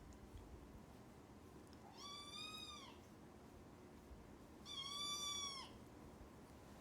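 Kitten meowing twice, each high-pitched call lasting about a second and dipping in pitch at its end.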